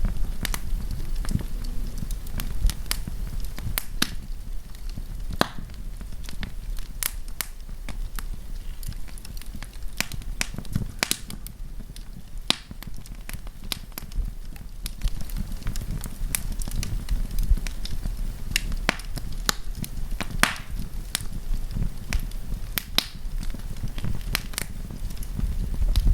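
Wood campfire burning and crackling: irregular sharp pops and snaps of burning wood over a steady low rumble of the flames.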